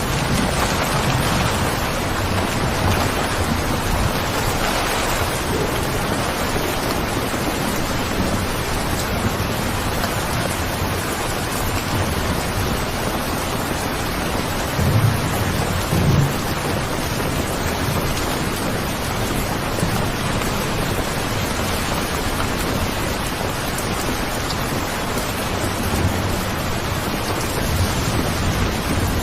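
Steady, heavy rain falling, with a low rumble underneath and two short low thuds about halfway through.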